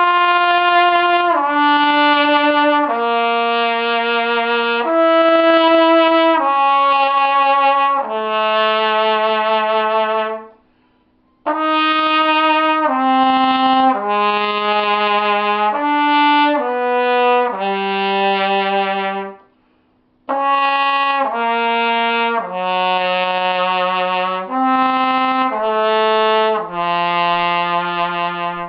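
Trumpet playing a lower-range warm-up exercise: three phrases of held notes stepping downward, each phrase ending on a long low note lower than the one before.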